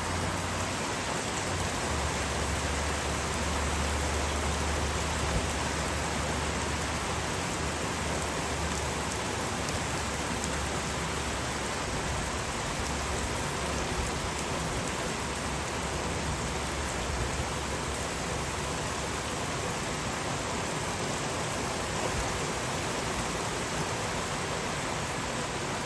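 Steady rain falling on a backyard, an even patter with a few distinct drops ticking.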